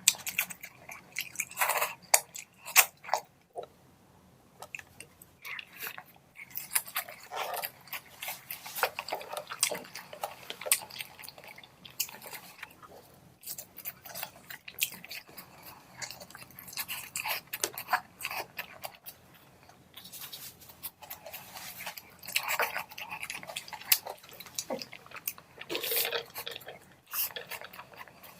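A person chewing and smacking close to the microphone while eating rice and curry: irregular wet clicks and mouth noises with short quiet pauses.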